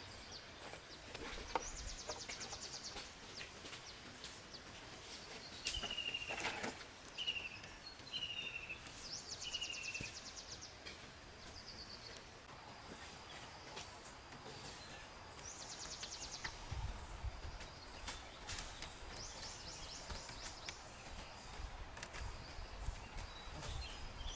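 Wild birds calling over a faint steady background hiss: a high buzzy trill that repeats several times, and a run of four short, slightly falling notes about six seconds in, with a few scattered clicks.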